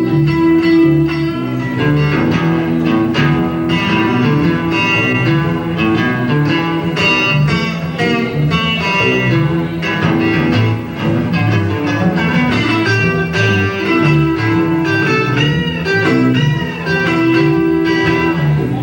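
Live blues band playing an instrumental break with no vocals: guitar lead over bass and drums, with bent notes near the end.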